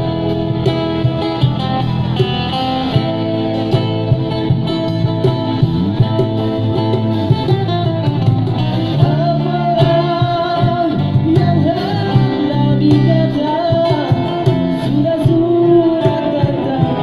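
A male street busker singing a song to guitar accompaniment. The guitar carries the first half and the voice comes in about halfway through.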